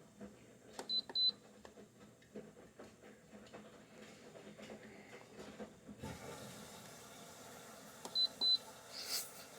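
LG 6000 BTU window air conditioner's control panel beeping, two quick short beeps about a second in and two more near the end, as its buttons are pressed. A low steady hum runs underneath, the background noise grows louder about six seconds in, and a brief rushing noise follows the last beeps.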